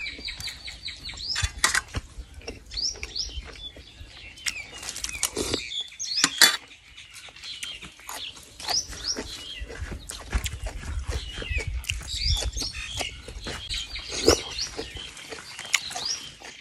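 Close-miked eating sounds: chewing, lip smacks and small clicks as frog from a bamboo-shoot curry is eaten by hand, with a few sharper clicks now and then. Small birds chirp over and over in the background.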